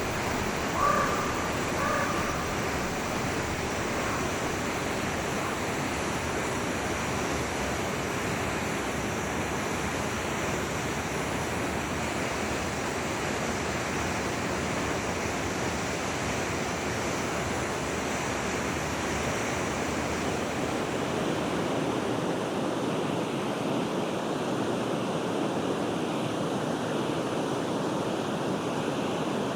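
Forest river flowing in a steady, even rush of water, with two brief pitched notes about one and two seconds in.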